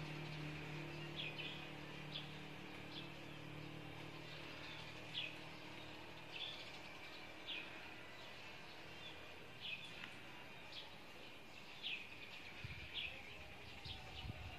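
Small bird chirping over and over, short high calls about once a second, over a faint low hum that fades away in the first half.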